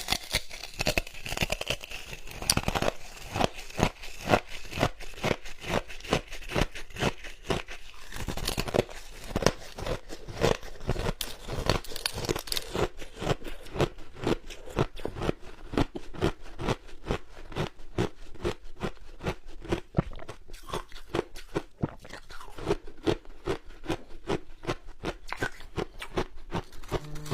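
Ice being bitten and chewed close to the microphone: a fast, steady run of sharp, crisp crunches, several a second.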